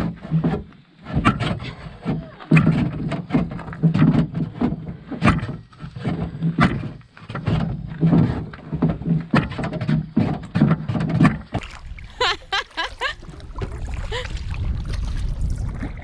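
Irregular hollow knocks and thumps of a canoe being handled: hull, paddle and gear bumping against each other. About twelve seconds in there is a brief high warbling call, and after it a steady rush of water and wind.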